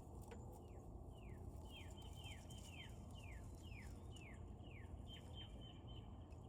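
A songbird singing a series of about ten clear downslurred whistles, roughly two a second, ending in a few short level notes, over a faint steady background rumble.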